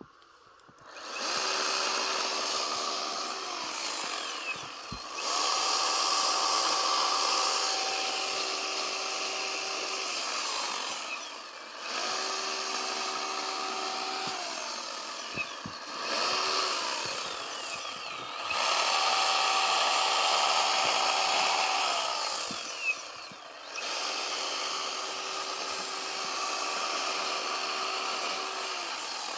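Chainsaw cutting into a block of packed snow. It starts about a second in and runs in six long stretches, its engine note dropping briefly between them, then stops near the end.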